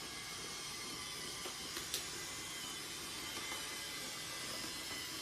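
LEGO Boost train's small electric motor whirring steadily as it runs on plastic track, with two short clicks about 1.5 and 2 seconds in.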